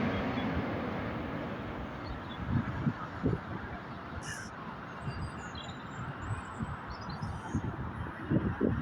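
Jet noise of a four-engine airliner fading steadily as it passes by and moves away. A few faint bird calls come in the middle, and wind buffets the microphone with low thumps, more of them near the end.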